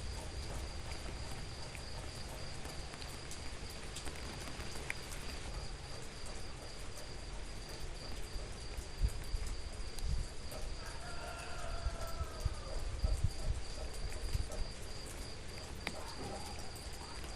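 Steady rain ambience with scattered drip clicks and a continuous high-pitched tone over it. A brief call rises out of it about eleven seconds in.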